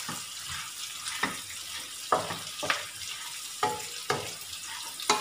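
Fried pork pieces sizzling in a nonstick wok while a wooden spatula stirs them, with a short knock or scrape of the spatula against the pan about once a second.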